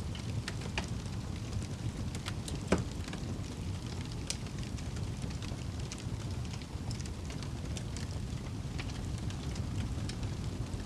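Wood fire crackling, with scattered sharp pops and one louder pop about three seconds in, over a steady low rumble.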